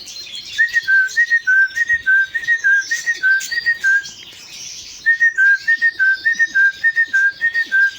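A person whistling an imitation of the great tit's call: a clear two-note phrase, high then slightly lower, repeated rapidly in two runs with a short pause about four seconds in. It is the breeder's call that brings his canaries to come and feed from his hand.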